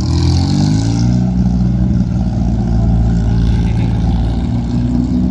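Car engine revving: its pitch climbs over about the first second, then runs steady at the higher speed.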